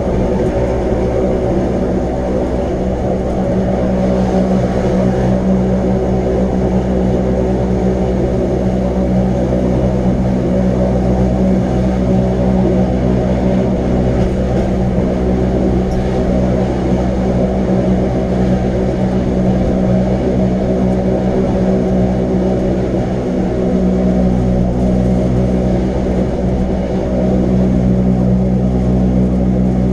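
Electric rack-railway train running at a steady pace: a constant drone with a steady hum of motor tones.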